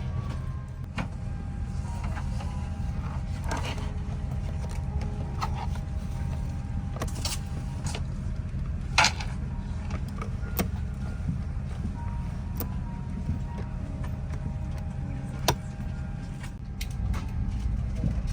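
Boeing 787-8 cabin at the gate during boarding: a steady low hum of the cabin air with scattered clicks and knocks, two sharper knocks about 9 and 15 seconds in.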